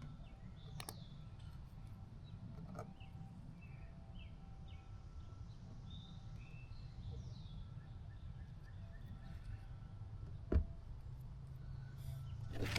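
Faint bird chirps over a low steady hum, with a few light clicks, one sharper click near the end.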